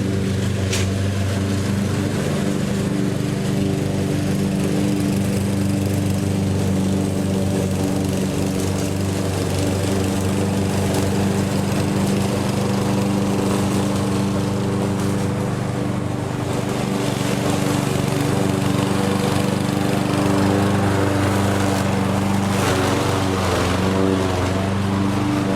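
Lawn mower's small engine running steadily at an even speed.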